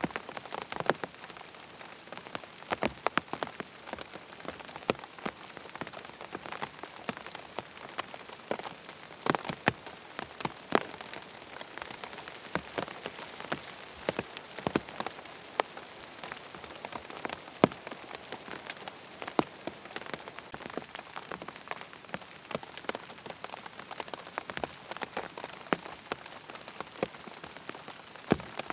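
Steady rain falling, with frequent irregular sharp taps of individual drops.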